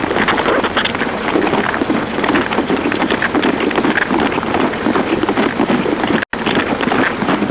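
Heavy rain pouring down and pattering densely on surfaces. The sound cuts out for a split second about six seconds in.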